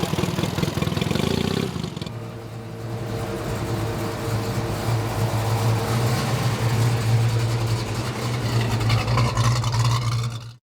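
A car engine running, rough and louder for the first two seconds, then settling into a steady idle. The sound cuts off abruptly at the end.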